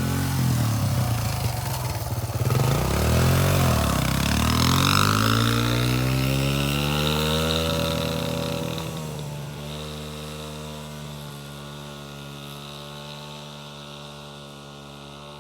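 Suzuki DR-Z125 dirt bike's small single-cylinder four-stroke engine being ridden. Its note wavers up and down, climbs steadily as the bike accelerates, then holds a steady pitch and grows fainter.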